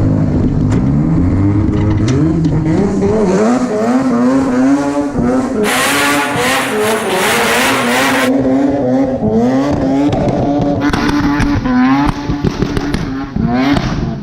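Rotary-engined car revving hard, its engine pitch rising and falling over and over as it is driven. About six seconds in, a burst of tyre squeal and hiss lasts about two seconds.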